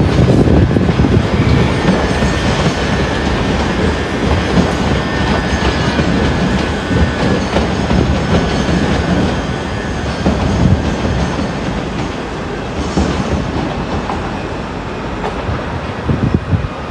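A train running through the station, with steady rail noise, wheels rumbling over the track and faint high squealing tones.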